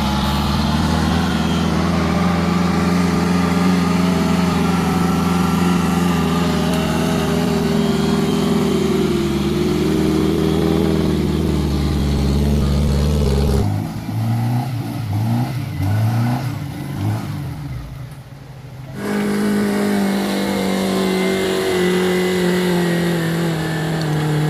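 Off-road vehicle's engine running under load at a steady pitch. About halfway through it revs up and down in quick surges about once a second, then settles back to steady running.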